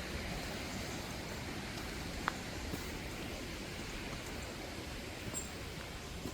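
Steady rush of water from Aira Force waterfall and its beck, with one short sharp click about two seconds in.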